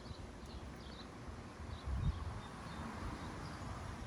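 Outdoor ambience: faint scattered bird chirps over a soft steady rush of background noise, with low thumps now and then.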